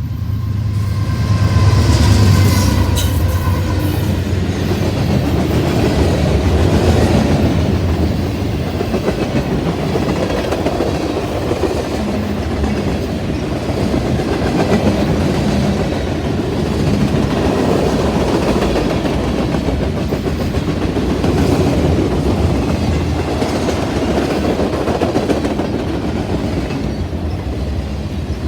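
A train passing close by, its wheels rumbling and clattering steadily over the rails. The last of its horn fades out in the first couple of seconds.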